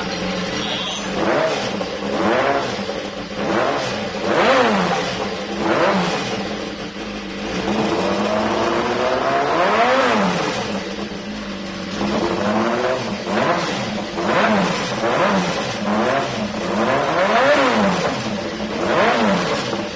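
BMW S1000RR inline-four motorcycle engine idling and being blipped, with about ten quick revs that rise and fall in pitch, some in bunches and some a few seconds apart.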